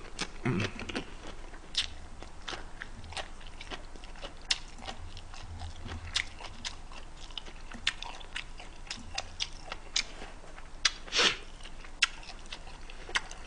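Close-up chewing of a mouthful of Korean beef bulgogi wrapped in leafy greens (ssam). The chewing comes as a run of irregular wet mouth clicks and crunches.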